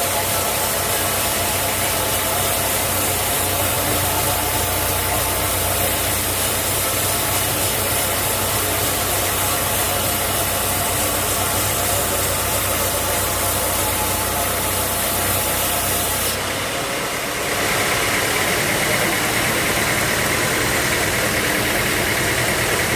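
Sawmill machinery running with a steady engine hum. About two-thirds of the way through, the sound shifts abruptly and a higher-pitched steady whine comes in.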